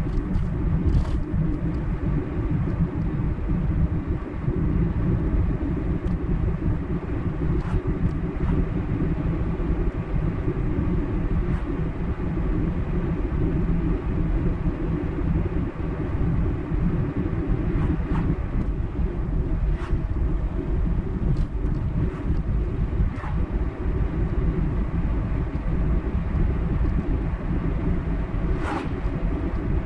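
Car driving at steady speed on a highway: a continuous low rumble of road and tyre noise with engine hum, and a few faint short ticks now and then.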